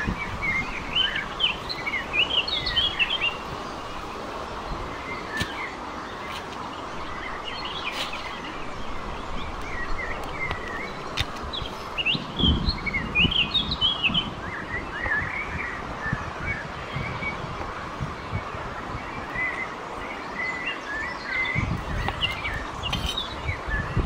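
Small songbirds chirping and twittering in repeated bursts of quick, high notes, over a steady outdoor hiss with a few low rumbles of wind on the microphone.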